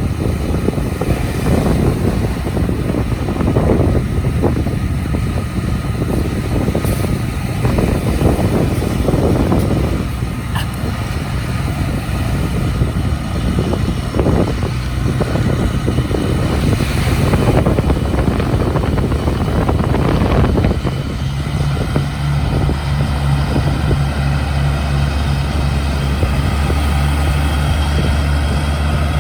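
Tractor engine running over a rush of wind and surf. About twenty seconds in, a steady low engine drone takes over.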